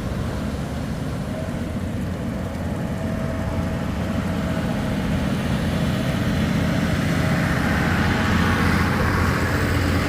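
An engine running steadily with a low rumble, growing somewhat louder over the last few seconds.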